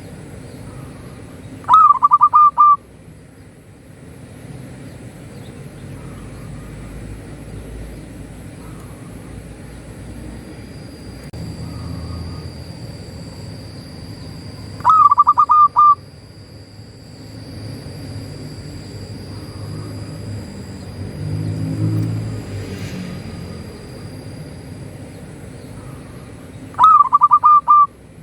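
A zebra dove (perkutut) coos three times, each a quick run of notes lasting about a second, with long gaps between phrases. Under the calls is a low background rumble.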